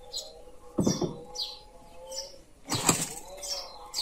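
Small birds chirping repeatedly, short falling chirps about twice a second, over a faint steady hum. Two dull knocks, about a second in and near three seconds, as a plastic plant pot is handled and moved.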